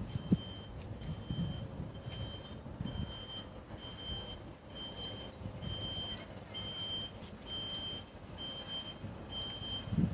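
Electronic beeper sounding short, even beeps, each on two tones at once, about two a second, over a low rumble of wind.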